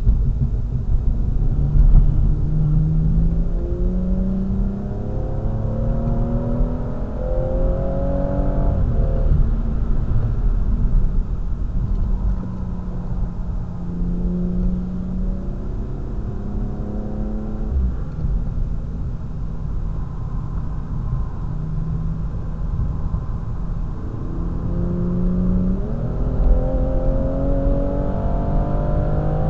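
BMW M240i's turbocharged straight-six heard from inside the cabin, accelerating through the gears: its pitch climbs and drops at an upshift about nine seconds in, holds steady, falls away around eighteen seconds, then climbs again with another shift near the end. Steady road and tyre rumble underneath.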